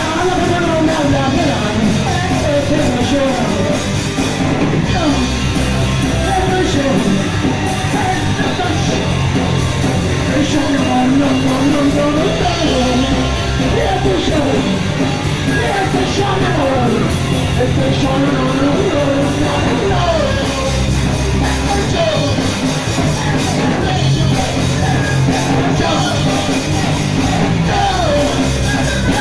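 Punk rock band playing live, a lead vocal sung over the full band of guitar, bass and drums.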